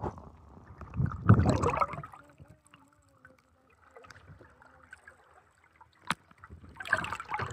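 Water sloshing and splashing in two bursts, one about a second in and one near the end, with a single sharp click just after six seconds.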